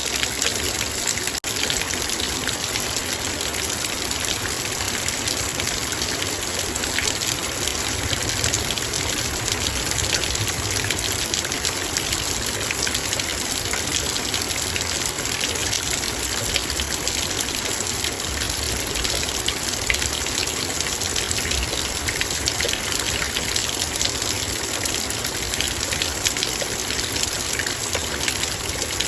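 Heavy rain falling steadily on a metal bowl: countless drops striking the metal as fine ticks over the even hiss of the downpour.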